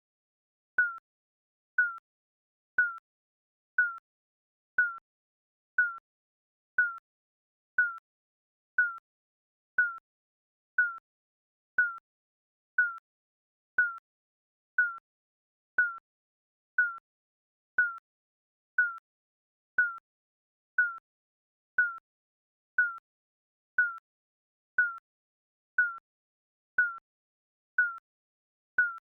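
Digital countdown timer beeping once a second: each beep is a short high tone that dips slightly and dies away quickly, with silence between beeps.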